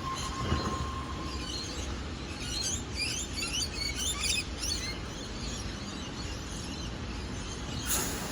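Birds chirping in a quick flurry of short calls over a steady low rumble of rail and station noise. A steady high tone fades out about a second in, and a sharp click comes near the end.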